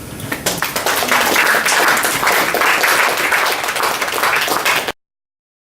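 Audience applauding at the end of a poem, starting about half a second in; the clapping cuts off suddenly near the end.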